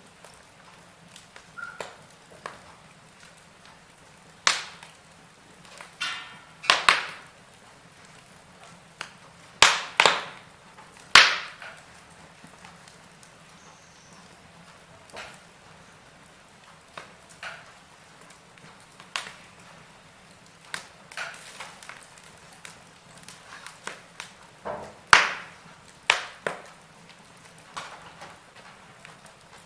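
Wood fire crackling: irregular sharp pops and snaps, a few much louder than the rest, over a faint steady hiss.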